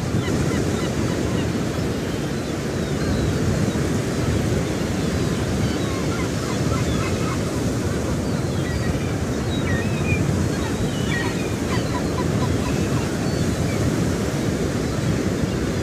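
Steady wind rumble on the microphone, with faint scattered budgerigar chirps over it.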